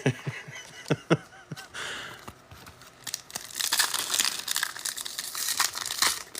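A foil trading-card pack being torn open, its wrapper crinkling. A few sharp clicks come in the first second or so, and the crinkling grows dense from about three seconds in.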